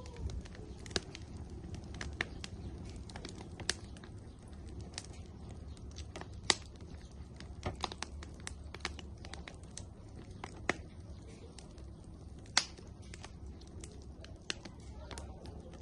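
Firewood burning in an outdoor grill, crackling with irregular sharp pops over a low steady rumble. The loudest pops come about six and a half seconds in and again near thirteen seconds.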